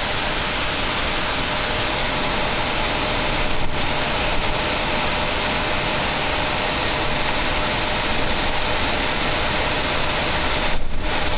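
Steady running noise inside a moving passenger train carriage: an even rush from the wheels on the track and the air, with a faint steady hum.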